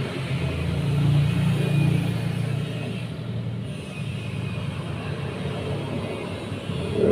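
Road traffic rumble: a motor vehicle passing, growing louder to a peak a second or two in, then fading back to a steady low rumble.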